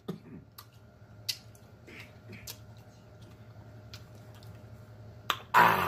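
Close-miked chewing and swallowing of a last mouthful of greens: scattered wet clicks and smacks of the mouth over a steady low hum, ending in a loud breath out near the end.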